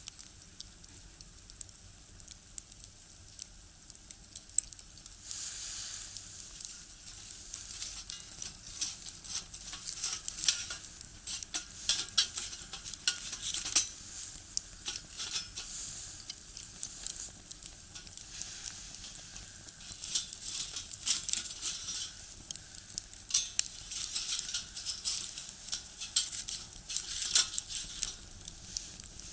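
Wood fire burning in a small box stove, crackling and popping with a hissing that swells about five seconds in and again later.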